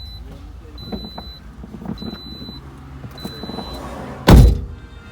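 A car's door-open warning chime beeps about once every second, then a car door slams shut hard about four seconds in, the loudest sound.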